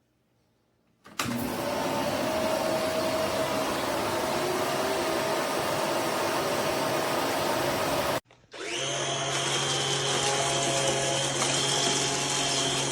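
Eureka RapidClean Pro cordless stick vacuum running. It starts about a second in and cuts off after about eight seconds. After a short break it runs again with a steadier hum and a high whine.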